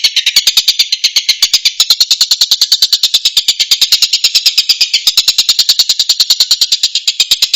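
Tengkek buto bird calling: a rapid, even chatter of sharp high notes, about ten a second, with no pause.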